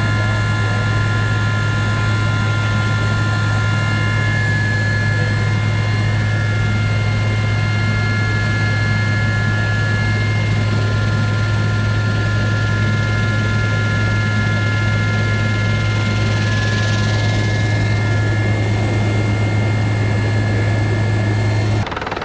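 Aérospatiale SA342M Gazelle helicopter running steadily in flight: a constant low drone with several steady high-pitched whining tones over it. The sound changes abruptly just before the end.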